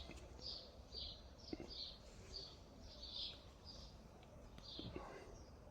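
A bird chirping over and over, short high calls about twice a second, faint, over a low rumble.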